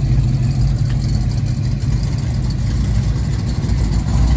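A car engine running at low speed close by, a steady low rumble, as a car arrives at the lot.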